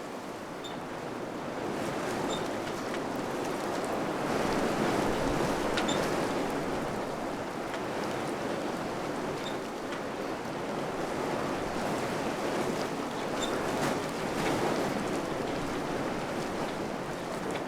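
Wind blowing in gusts, swelling and easing, with a few faint small ticks.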